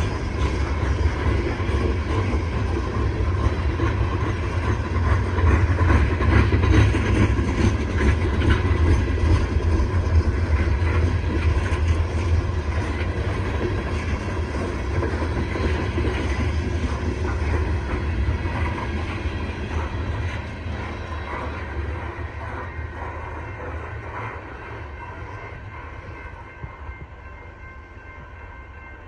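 Cars of a CSX coal train rolling past with a heavy, steady rumble of wheels on rail, fading away over the last ten seconds or so as the train moves off.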